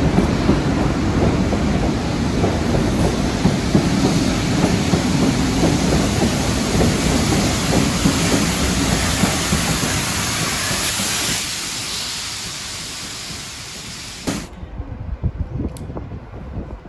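A train passing close by: a loud, steady rush of running noise that fades away from about eleven seconds in. A few seconds before the end the high hiss cuts off abruptly, leaving a few low knocks.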